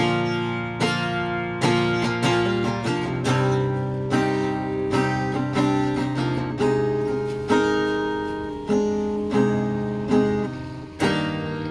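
Acoustic guitar strumming chords at an even pace as the instrumental ending of a song, with a last chord struck near the end and left to ring.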